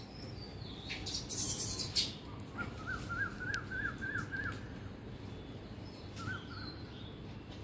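A songbird singing a phrase of repeated rising whistled notes, about three a second, then a short two-note repeat about two seconds later. A brief hiss or rustle comes before the song, over a steady low rumble.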